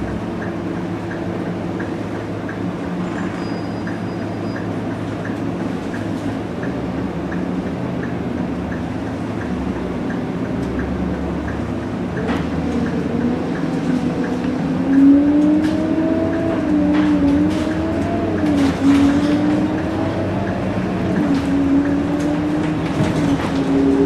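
Scania K230UB bus's five-cylinder diesel engine running steadily, then from about halfway its pitch rises and falls repeatedly as the bus pulls away and moves through its gears.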